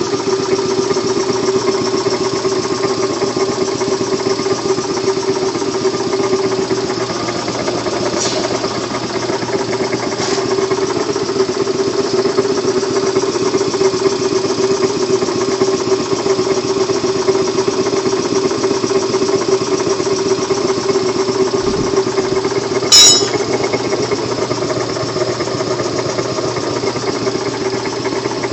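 Kellogg 325TV piston air compressor running steadily with an even hum, with one brief, sharp, loud clack about 23 seconds in.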